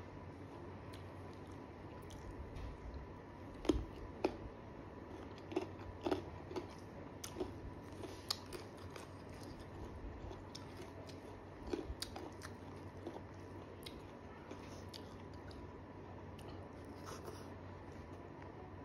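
Close-miked chewing of a mouthful of rice: soft, wet mouth clicks and smacks, loudest about four seconds in and thinning out in the later part.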